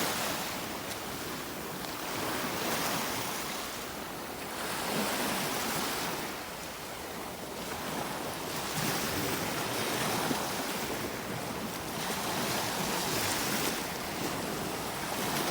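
Small sea waves washing onto the shore, the surf swelling and falling back every few seconds, with some wind.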